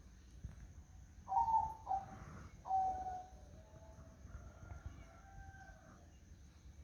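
Zebra dove cooing: a run of short, clear notes starting about a second in, loudest over the next two seconds, then softer notes that stop about a second before the end.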